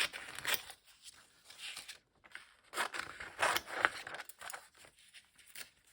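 Paper being handled and cut: catalogue pages rustling and scraping, with scissors snipping through paper. The sounds come in two spells of short scratchy strokes, at the start and again about three to four seconds in.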